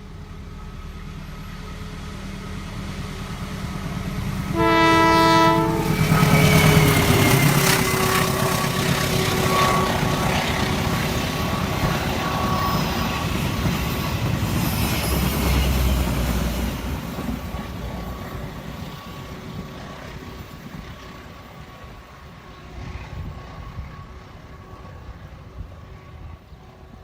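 A long train approaches, gives one short horn blast about five seconds in, and runs past with a loud rumble of wheels on rail and a thin steady squeal, then fades away.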